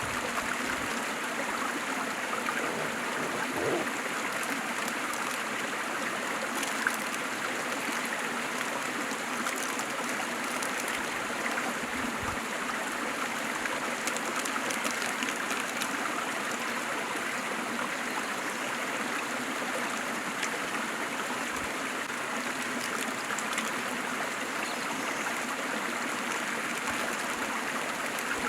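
Waterfall splashing steadily, a constant rush of falling water with an occasional louder splash.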